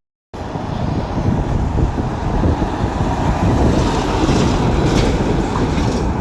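Steady low vehicle rumble with wind buffeting the microphone, starting after a split second of silence.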